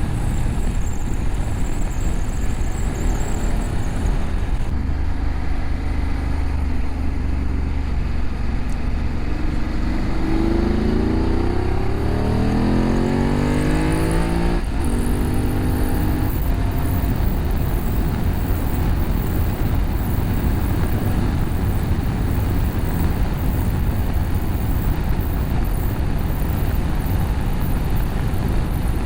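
BMW F850GS parallel-twin engine through an Akrapovic slip-on exhaust with a catalytic-converter bypass, heard over steady wind rush while riding. About a third of the way in, the engine is opened up hard and its note rises for several seconds. It cuts off sharply at a gear change about halfway through, then carries on at a lower note before sinking back under the wind noise.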